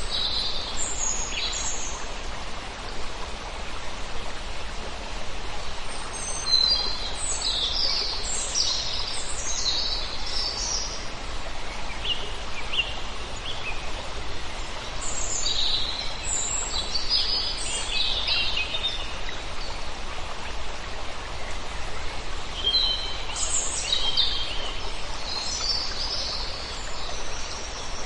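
Many birds of a large flock chirping in bursts of short, high calls, coming in clusters every few seconds, over a steady background hiss.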